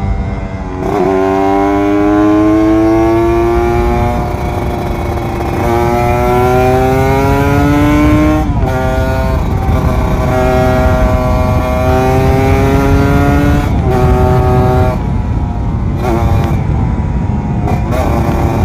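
Kawasaki Ninja RR 150's two-stroke single-cylinder engine accelerating up through the gears. The pitch climbs in each gear and drops at each upshift: about a second in, at about six seconds and at about eight and a half seconds. After that it holds steadier, with several brief throttle lifts near the end, over wind rush.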